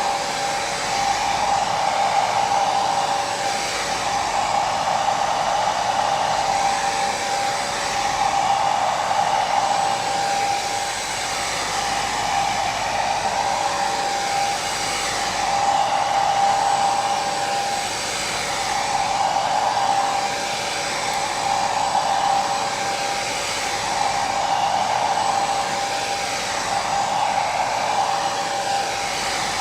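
Hair dryer running continuously: a steady rush of air with a motor whine, swelling and easing gently every few seconds.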